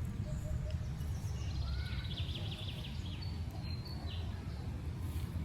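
Outdoor background noise, a steady low rumble, with a bird's rapid run of high chirps and a brief high whistle near the middle.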